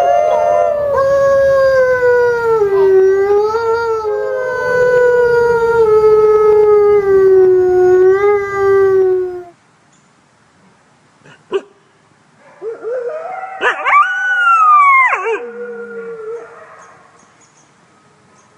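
Wolf howling: one long howl, held about nine seconds and slowly falling in pitch, then after a pause a shorter howl that rises, wavers and slides down at its end.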